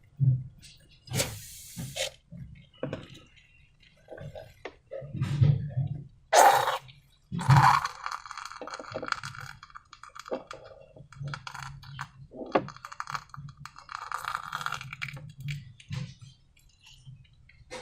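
Clear slime being squished and stretched: irregular sticky clicks, crackles and small pops, with two louder bursts about six and a half and seven and a half seconds in.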